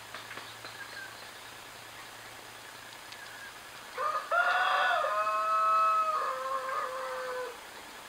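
A bird's single long call, about three and a half seconds, starting about halfway through: it steps up in pitch, holds, then drops lower near its end.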